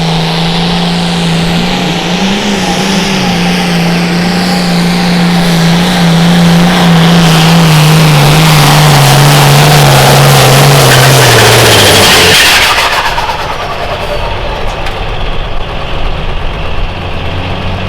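A pulling vehicle's engine runs hard under full load as it drags the weight sled down the track. Its pitch slowly falls as the engine is pulled down, and the engine cuts back suddenly about twelve seconds in as the pull ends, leaving a lower, quieter engine sound.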